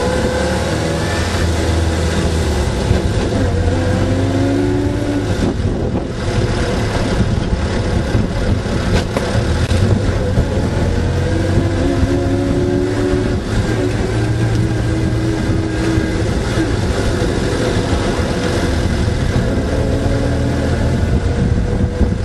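Austin Seven's small side-valve four-cylinder engine and drivetrain running on the move, heard from on board the car, with a whine that climbs in pitch several times as it pulls away.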